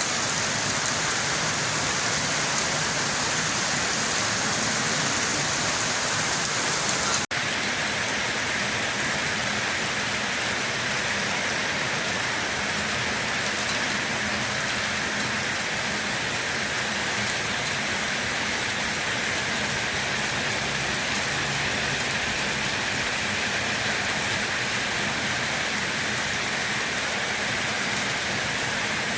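Steady rain falling, an even hiss of drops. About seven seconds in the sound cuts abruptly and resumes with a duller, lower hiss, as at a splice between two rain recordings.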